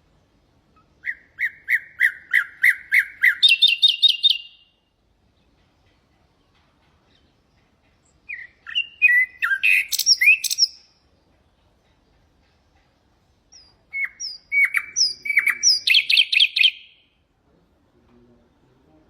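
Common nightingale singing: three song phrases with pauses of a few seconds between them. Each phrase is a fast run of repeated notes that jumps to a higher pitch, mixed with varied whistles.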